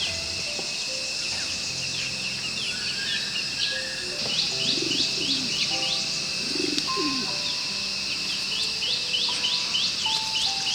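Small birds chirping in quick repeated runs over a steady high insect hum, with two low arching calls in the middle and soft held background tones.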